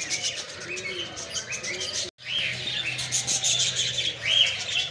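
A crowd of caged birds chirping and chattering: many short, rising-and-falling calls overlapping with quick high ticks. The sound cuts out for an instant about two seconds in.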